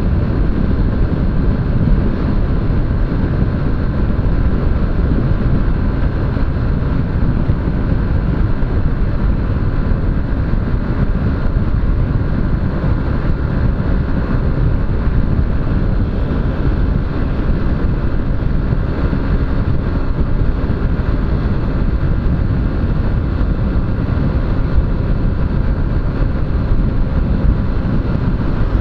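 Steady wind buffeting on an action camera's microphone over the running engine of a Honda CG 125 Fan motorcycle, a single-cylinder 125 cc bike, cruising along the road.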